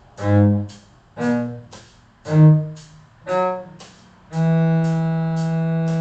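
A cello playing a slow rising arpeggio phrase, G sharp, B, D sharp, F sharp, as four short separate notes, then a long held E that steps down to D sharp near the end. A steady tick about twice a second runs underneath.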